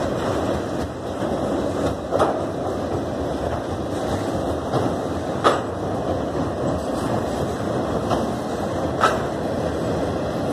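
A long freight train of auto rack cars rolling past. There is a steady rumble of steel wheels on the rails, with a sharp clank every few seconds.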